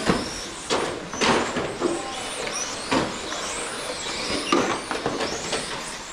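A pack of electric RC touring cars with 21.5-turn stock brushless motors accelerating away from the race start, their high motor whines rising and falling as they throttle and brake. Several sharp knocks through the pack are heard, the loudest just after the start.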